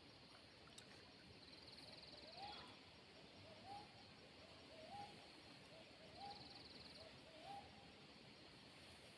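An animal call repeated five times in a quiet forest. Each call is a short low note sliding up into a higher one, about one every 1.3 seconds. A faint pulsed insect-like buzz comes twice.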